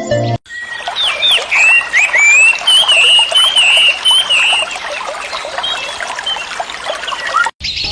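Water trickling, with many short, high chirping calls over it. It starts suddenly about half a second in and cuts off suddenly near the end.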